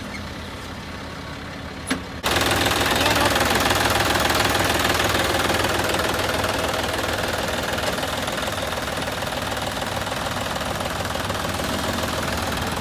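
Farm tractor's engine running steadily; about two seconds in it suddenly becomes much louder and noisier, and stays that way.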